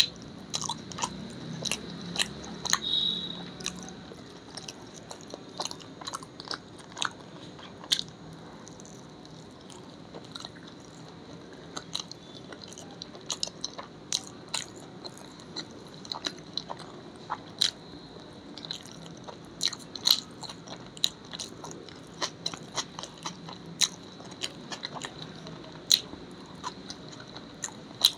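Close-miked chewing and biting of food, with irregular wet mouth clicks and soft crunches, over a faint steady high-pitched whine.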